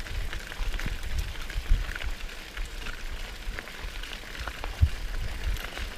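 Mountain bike riding over a rough dirt track: a steady crackle of tyres on grit with scattered small clicks and rattles from the bike, over a low bumpy rumble.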